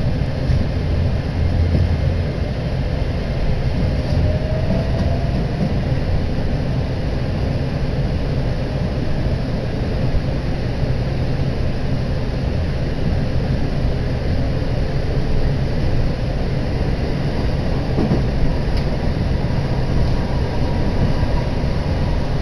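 Running noise heard inside a moving electric train: a steady rumble of wheels on the rails and the car body. A faint rising whine comes through about four seconds in.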